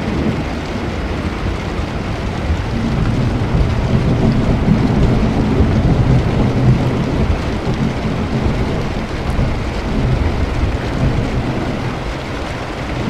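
Steady rain with a long, low roll of thunder that builds a few seconds in, peaks mid-way and fades off near the end.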